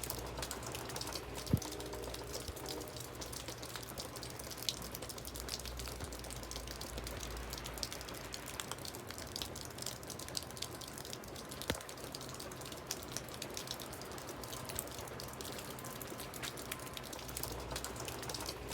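Water trickling and dripping, a steady wash full of fine ticks, with a few sharp clicks, the loudest about a second and a half in.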